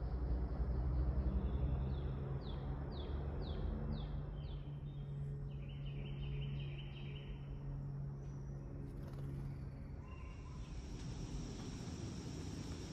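Songbird calling: a quick series of downward-sliding whistled notes, then a rapid trill, over a low steady hum.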